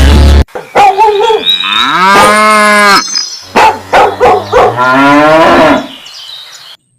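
Several drawn-out animal calls in a row, each with a pitch that bends upward and then holds, like cattle mooing.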